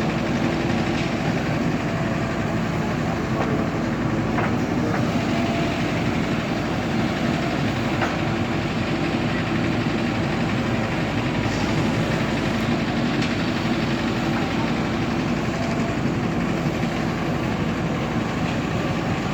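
Diesel engine running steadily under constant load, with a few faint clicks over it.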